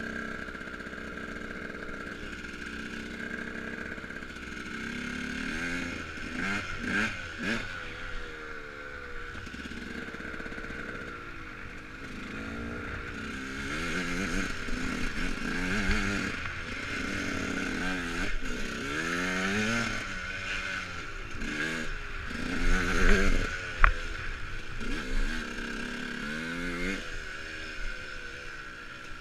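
KTM dirt bike being ridden over rough ground, its motor pitch rising and falling again and again as the throttle is worked, over a steady high whine and some rattling. A sharp knock about 24 seconds in.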